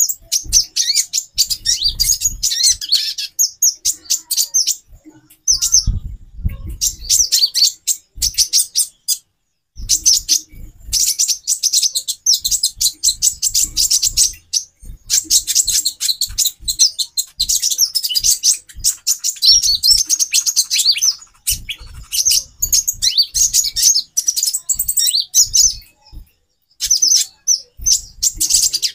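Several female kolibri ninja (konin) sunbirds twittering together: dense, rapid, high chirping in long runs broken by short pauses, with scattered soft low thumps.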